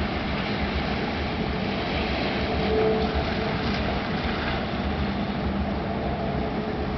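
Steady rumbling noise of a thunderstorm, with faint steady hums underneath.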